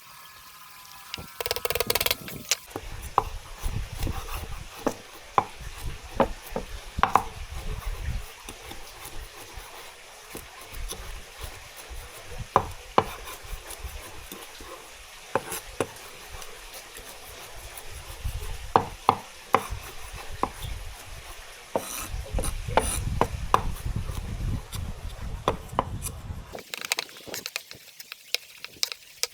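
Kitchen utensils knocking and clicking irregularly against cookware and a work surface during food preparation, over a low rumble that comes and goes.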